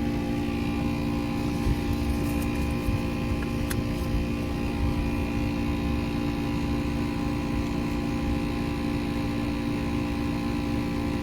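Steady mechanical hum made of several held tones over a low rumble, with a few faint clicks. It is an unidentified machine noise at a fast-food drive-thru window, and it is annoying.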